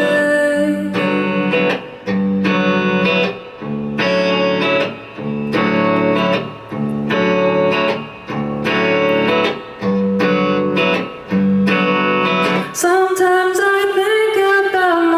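Live band performance: a guitar strumming chords in a steady rhythm, about one chord a second. Near the end a singing voice holds a long, wavering note.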